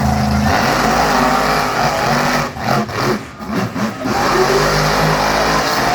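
Monster truck engine revving loudly. The sound turns choppy and drops away in short gaps for about a second and a half midway, then runs strong again.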